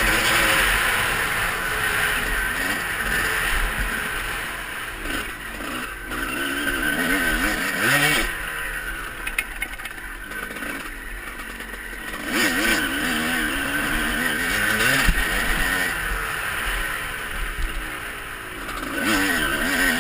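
Motocross bike engine revving up and down again and again under hard riding, with a quieter stretch about halfway through.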